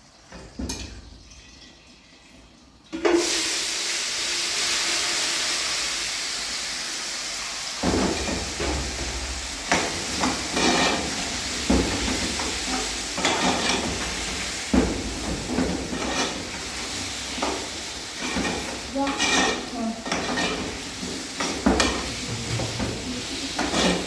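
Food sizzling in a hot pan, starting suddenly about three seconds in. From about eight seconds on, a utensil scrapes and clinks against the pan again and again as it is stirred.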